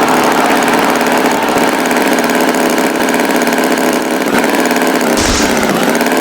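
Tractor engine running steadily at idle, with a short puff and a brief dip in pitch about five seconds in.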